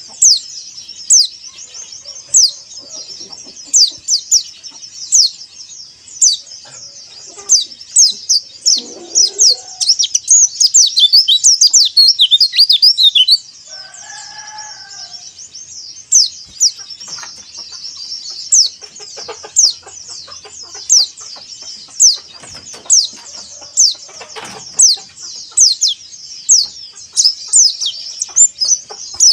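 White-eye (pleci, Zosterops) calling: a steady run of short, high, downward-sweeping chirps, one or two a second. About ten seconds in comes a faster twittering run of a few seconds, followed by a brief lower call.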